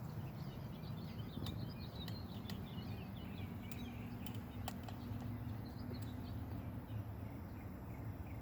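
Several small birds chirping and twittering in quick, overlapping calls, over a steady low background rumble.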